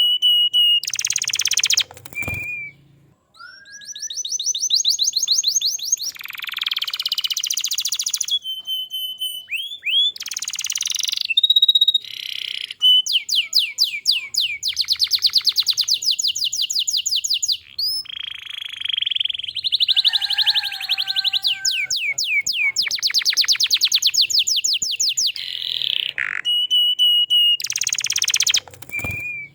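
Domestic canary singing in full, continuous song: a chain of fast, high trills and rolls, each a quick run of repeated notes, changing pitch from phrase to phrase, with a short lull about three seconds in.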